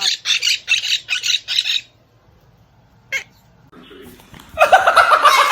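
Quaker parrot squawking: a quick run of about six harsh squawks, a pause broken by one short call, then loud continuous squawking starting near the end.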